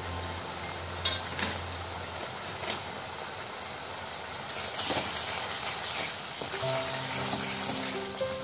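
Masala paste frying in oil in a steel kadhai, with a steady sizzle and a couple of sharp clicks early on. A wooden spatula stirs the paste near the end. Faint background music comes in during the last couple of seconds.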